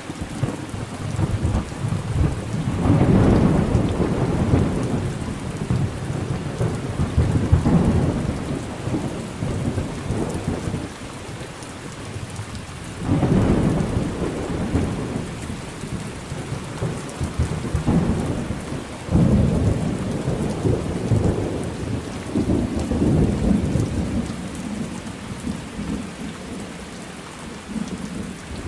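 Thunderstorm: steady rain with rolling thunder that swells up suddenly several times and dies away slowly in long low rumbles.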